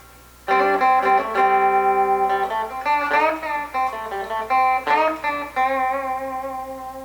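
Clean electric guitar, a Fender Stratocaster played on its bridge pickup with the tone control rolled down to about 5, giving a darker, warmer sound. It plays a riff of ringing held notes starting about half a second in, with a string bend about three seconds in.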